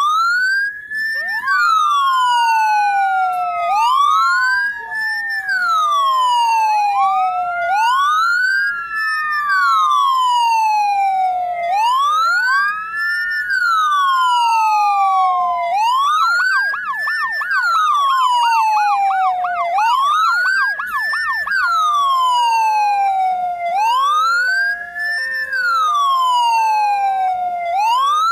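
Ambulance siren wailing, rising and falling in slow sweeps about every four seconds. A fast yelping warble joins for a few seconds around the middle, and a two-tone hi-lo siren sounds alongside the wail near the end.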